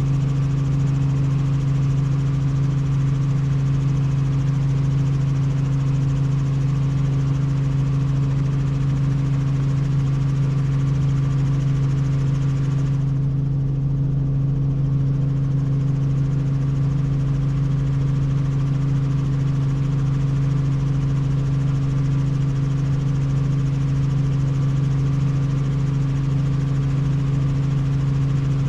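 Helicopter in flight: the engine and rotors make a steady, unchanging drone with a strong low hum.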